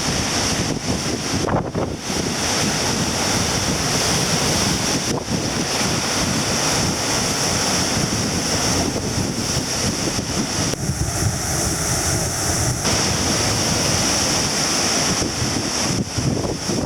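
Heavy surf breaking and washing up the shore, with strong wind buffeting the microphone throughout.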